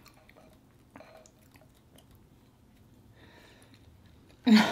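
Faint chewing of a mouthful of food, with a small click about a second in. A woman's voice breaks in loudly near the end.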